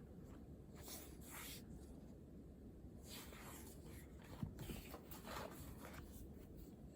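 Faint scratching of a pen writing on paper in short bursts of strokes, with a sharp tap about four and a half seconds in.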